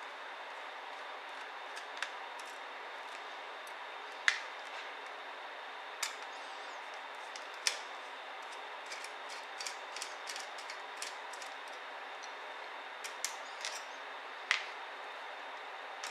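Sharp, scattered clicks and taps of small tools, screws and plastic and metal laptop parts being handled while a ThinkPad T60p is taken apart, over a steady hiss with a faint high whine. The loudest clicks come about four seconds in and near the end.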